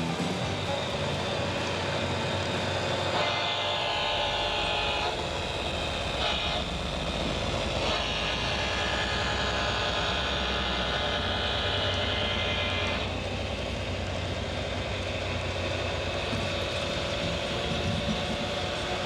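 A train horn sounds three times: a blast of under two seconds, a short toot, then a long blast of about five seconds, over the steady rumble of a running train.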